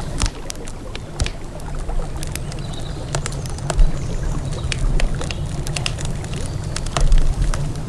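Wood campfire crackling, with irregular sharp pops, the loudest about four and seven seconds in, over a steady low rumble of flowing river water.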